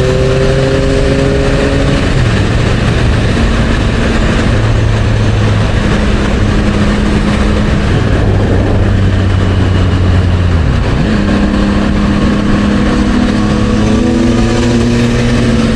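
Motorcycle engine with an aftermarket Yoshimura exhaust running at highway speed, over steady wind rush. The exhaust note holds and steps in pitch, drops about ten and a half seconds in, then climbs again as the engine revs.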